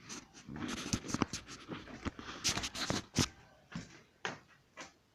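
A dog barking in a series of short, irregular barks.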